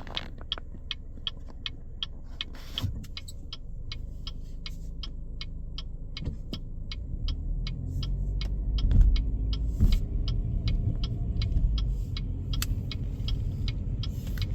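Car turn-signal indicator clicking steadily, about three clicks a second, heard inside the car's cabin over the low rumble of the engine and road, which grows louder about halfway through as the car gathers speed.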